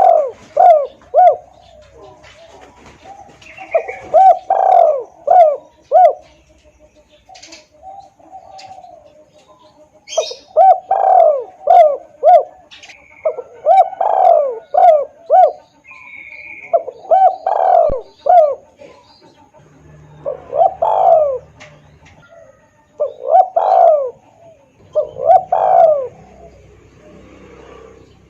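Spotted dove (tekukur) cooing loud and clear, in repeated phrases of several coos with short pauses between. This is a lure call played to draw wild doves to answer.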